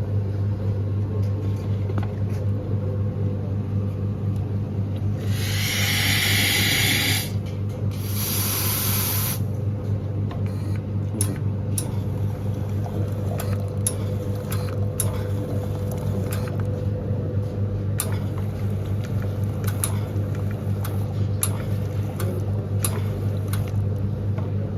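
Espresso machine running: a steady pump hum with water flowing, two loud bursts of hiss about five and eight seconds in, and scattered light clicks.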